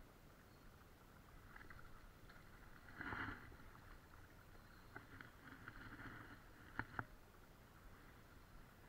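Faint sloshing of water, with a brief louder splash about three seconds in and two sharp clicks near the end.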